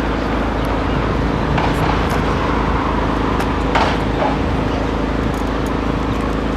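A steady engine hum, with a couple of brief knocks and faint voices in the background.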